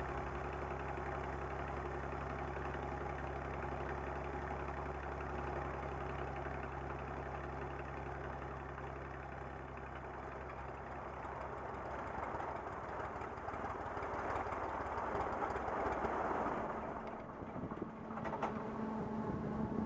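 Light aircraft's piston engine running steadily at low power while taxiing, an even low drone.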